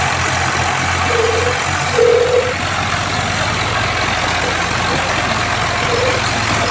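Tractor diesel engine running steadily, with a brief louder moment about two seconds in.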